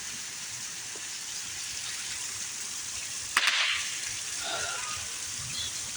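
Heavy rain falling steadily, with one sharp crack about three and a half seconds in.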